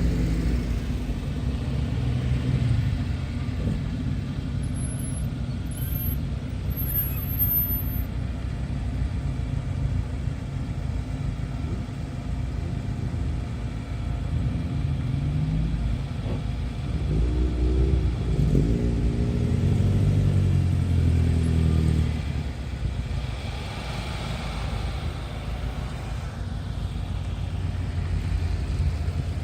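Car engines running with a steady low rumble. From about seventeen seconds in, one engine's pitch rises and falls over several seconds as it revs or drives past; this is the loudest part.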